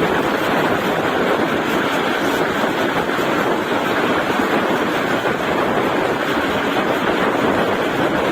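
Steady running noise of a moving Indian Railways express train, an even rush from wheels on rail and passing air, heard from on board.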